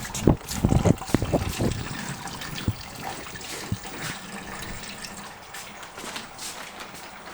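Engine coolant draining out of the radiator, splashing and trickling, with a few sharp knocks in the first couple of seconds.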